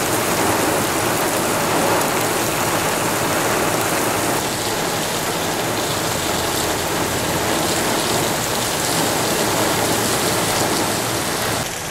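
Heavy rain pouring down steadily on pavement, an even hiss with no thunder heard.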